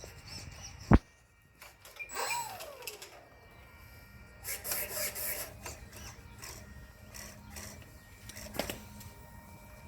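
Handling noises from working on an RC model airplane's elevator and servo: a sharp knock about a second in, then scattered clicks and rustling, over a faint steady hum.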